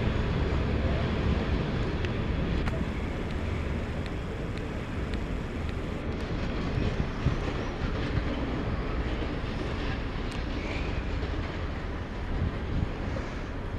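Freight train of timber-loaded open wagons hauled by an SM42 diesel shunting locomotive, rolling slowly away over the rails: a steady low rumble with a few light clicks.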